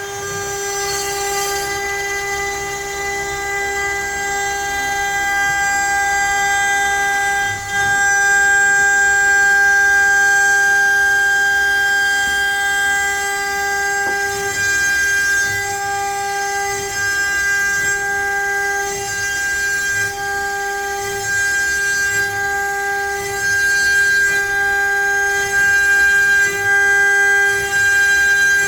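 CNC router spindle running with a steady high whine while the bit mills letters into pine, the level rising and dipping as the cut goes on.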